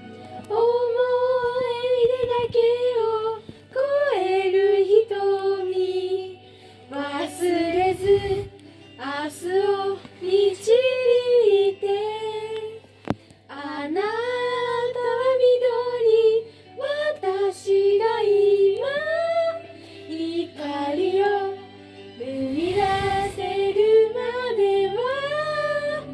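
Children's voices singing a gentle pop song in unison, over backing music.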